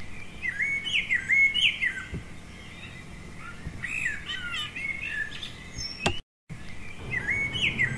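Birds chirping and singing in short whistled phrases that repeat. There is a click and a brief dropout about six seconds in, after which the same phrases start again.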